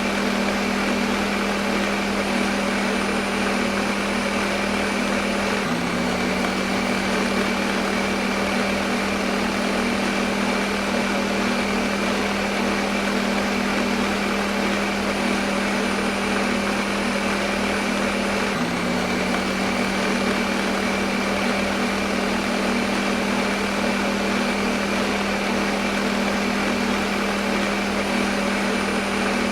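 Electric kitchen blender motor running steadily at constant speed: a high-pitched motor hum over a whirring rush of noise. Its pitch dips for a moment twice, about 13 seconds apart.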